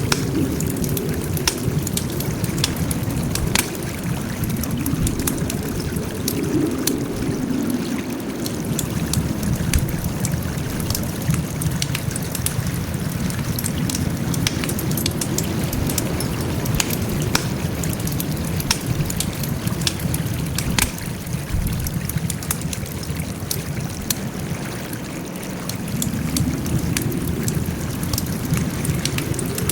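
Wood campfire burning: frequent sharp crackles and pops over a steady low rumble of flames that swells now and then.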